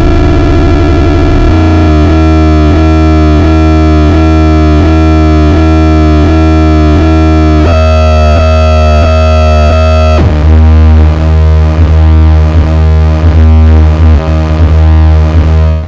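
Nova Drone analog synthesizer playing a loud, continuous low drone, with higher tones pulsing about twice a second over it. The upper pitch steps up about eight seconds in, and about ten seconds in the texture shifts and turns choppier.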